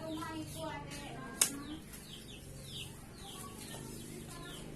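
Birds chirping in quick, repeated falling notes, with clucking in the first half second and one sharp click about a second and a half in.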